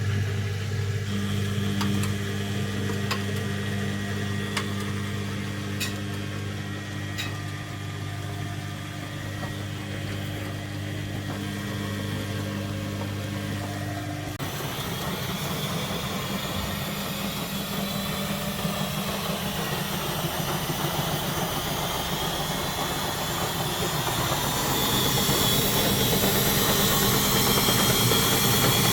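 Front-loading washing machine running with its covers off: a steady electric hum for about the first half stops abruptly, then the drum motor and belt drive speed up, a rising whine that grows louder as the drum winds up toward spin.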